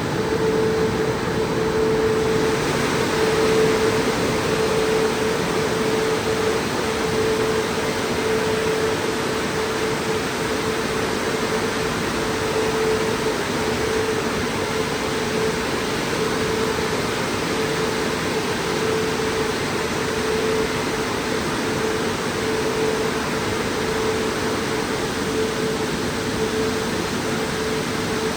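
Christ Vega C170 rollover car wash machine running: a steady rushing noise over a constant hum.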